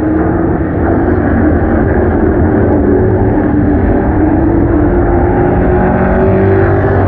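Several race car engines running together at speed on a short oval track, a steady loud drone with pitches drifting gently up and down as the cars circulate.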